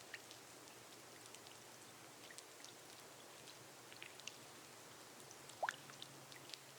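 Faint, steady rain on a glass roof, with scattered light drop ticks. About five and a half seconds in, one louder drop lands with a quick rising plink.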